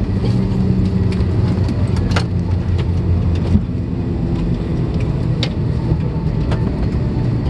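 Airbus A321-232 cabin on the ground after landing: the steady low hum of the engines at low power, with a few sharp clicks.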